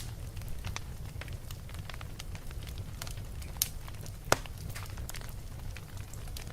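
Wood fire in a fireplace crackling, with frequent small pops and two sharper snaps near the middle, over a low steady rumble of the burning.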